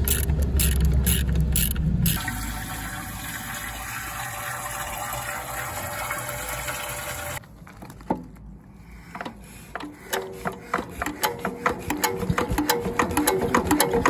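Andoria S15 single-cylinder diesel engine: its heavy running rumble drops away about two seconds in, leaving a steady rushing hiss that cuts off abruptly a little past halfway. After a quieter stretch, its firing knocks come back and grow quicker toward the end.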